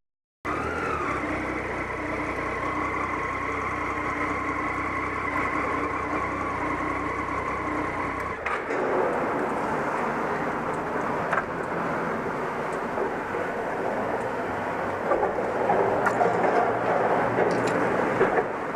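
Triumph Tiger motorcycle engine running at a steady speed while riding. About eight seconds in, the engine's steady tone drops away, leaving mostly wind and road noise.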